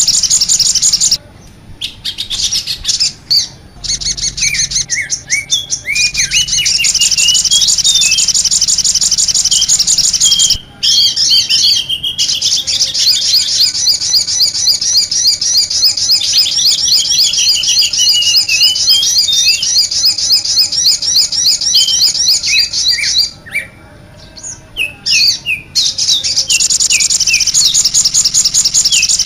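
Bird-lure recording of many small birds chirping at once: a dense, rapid, high-pitched twittering with faster trills layered over slower chirps. It breaks off briefly three times, where the track is spliced.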